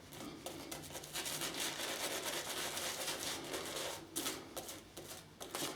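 Wolf Whiskers shaving brush working Williams menthol shaving cream into a lather, a steady soft swishing of wet bristles, with a few light clicks near the end.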